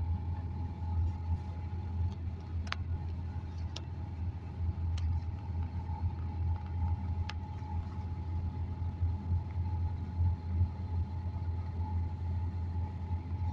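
Car driving along: a steady low rumble with a thin, steady whine above it, and a few short clicks between about three and seven seconds in.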